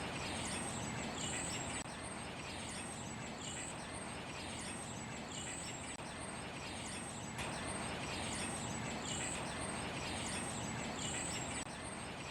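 Small songbirds chirping, high thin wavering notes repeated about once a second, over a steady rush of city background noise.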